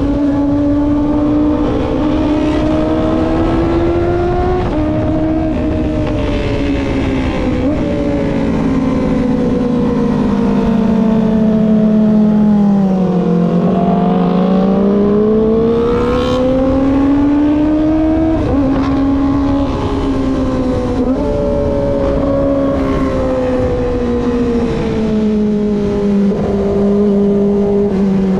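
Kawasaki ZX-25R's 250 cc inline-four engine under way, its pitch easing down to a low point near the middle and then climbing again, with a few sudden small steps in pitch. Wind rushes steadily over the microphone underneath it.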